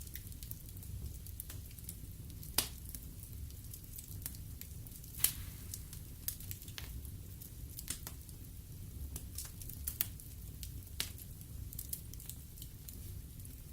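Wood fire burning in a fireplace: a steady low rumble with frequent sharp crackles and pops, the loudest about two and a half and five seconds in.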